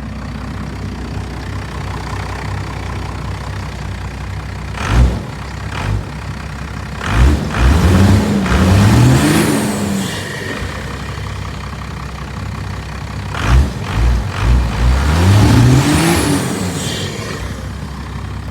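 An idling engine revved twice, each time climbing in pitch, holding high for a couple of seconds and dropping back to idle, with short blips before each rev. A high whistle rises and falls at the top of each rev.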